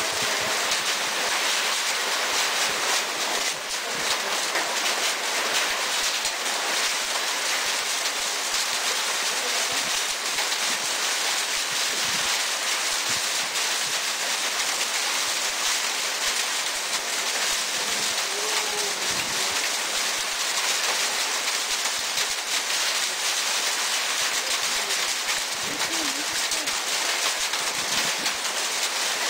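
Heavy hailstorm: a steady, dense hiss of hail and rain pelting down, with many sharp individual hits throughout.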